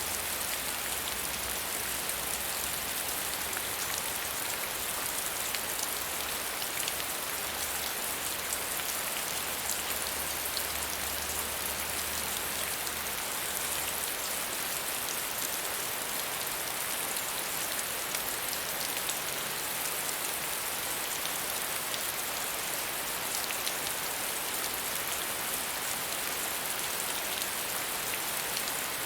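Steady medium rainfall: an even hiss of rain with many fine drop patters, and no thunder.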